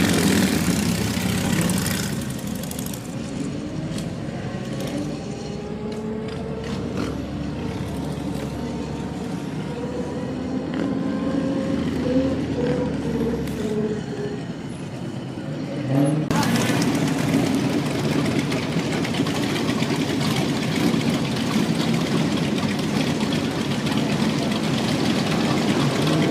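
Old car's engine running, heard from inside the car, its pitch gliding up and down as it drives. About two-thirds of the way through, a louder, steady rush of noise sets in and holds.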